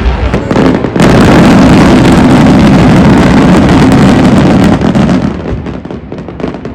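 Fireworks barrage: a continuous heavy rumble of overlapping bursts, loud enough to overload the microphone, from about a second in until about five seconds in. It then thins to scattered sharp cracks and bangs.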